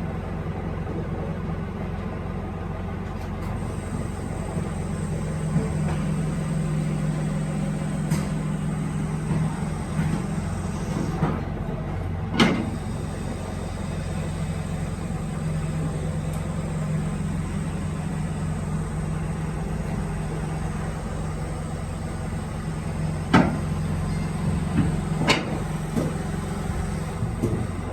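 Steady low hum of workshop machinery with a thin high whine, broken by a few sharp knocks and clacks, one around the middle and a cluster near the end.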